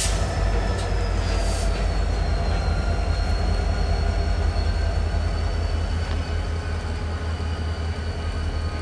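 Diesel locomotive of a Union Pacific SD40N running with a steady low throb. A thin high whine drops slightly in pitch about two seconds in and then holds steady.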